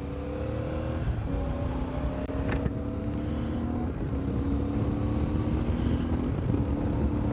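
CFMOTO 450MT's parallel-twin engine running under way, its note creeping up and stepping down a few times as the bike is ridden through the gears, with wind rumbling on the helmet microphone. The sound is picked up over a Bluetooth intercom, so it is narrow and thin.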